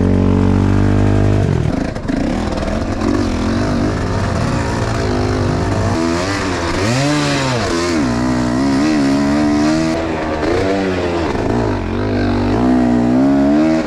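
Enduro motorcycle engine revving up and down over and over, its pitch rising and falling in repeated swells after a steady high note in the first second or so.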